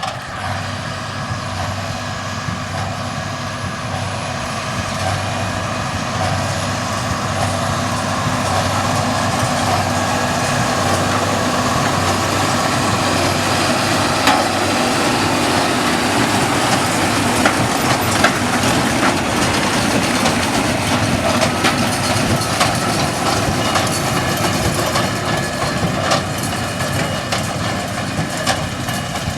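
Continuous rumble of a large vehicle with a few steady tones in it. It swells slowly to its loudest about halfway through and then eases off, with a few sharp clicks near the loudest part.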